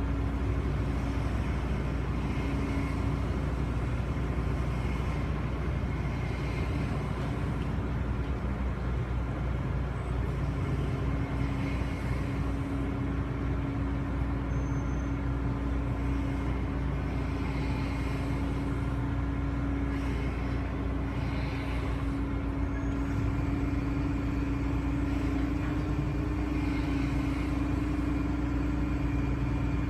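A car ferry's engines droning steadily on board: a constant low rumble with a steady hum over it.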